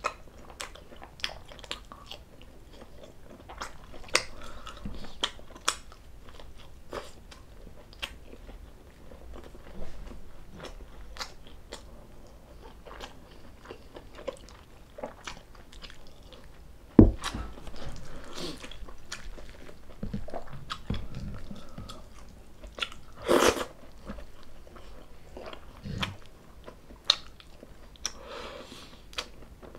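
Close-miked chewing and biting of squid adobo and rice, with many short wet mouth clicks and a sharp knock about seventeen seconds in.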